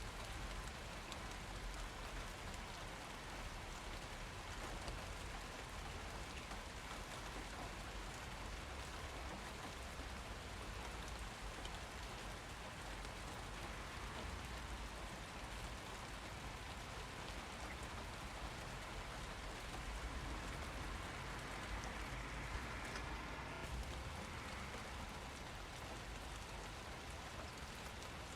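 Steady rain falling, an even hiss of many drops, a little heavier for a few seconds past the middle.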